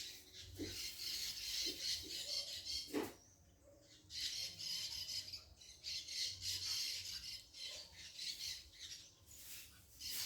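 Birds giving harsh, raspy squawking calls in repeated bursts of about a second each, with short pauses between them.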